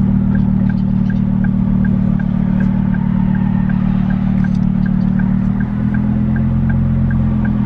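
Ford Focus ST's 2.5-litre turbocharged five-cylinder engine idling, heard from inside the cabin, with an even light ticking about two to three times a second. About five and a half seconds in, the engine note shifts.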